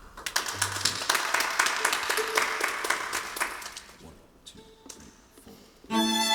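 A short patter of light clapping and taps between songs, thinning out into a brief lull. About six seconds in, bowed strings (violins, viola and cello) come in to start the next song.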